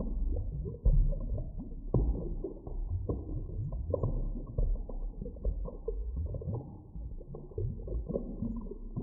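Muffled underwater ambience: a deep, dull rumble with frequent irregular pops and knocks, and nothing bright or high in it.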